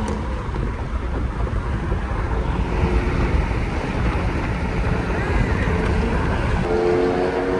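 Car on the move: engine and road rumble under heavy wind buffeting on the microphone, with a steady engine drone coming in near the end.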